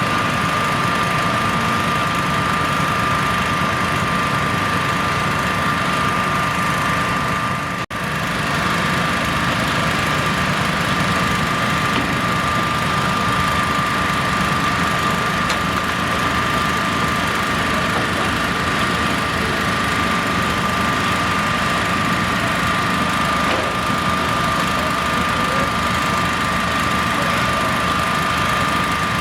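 Construction machinery engine running steadily at a constant pace, with a steady high whine over it. The sound drops out for an instant about eight seconds in.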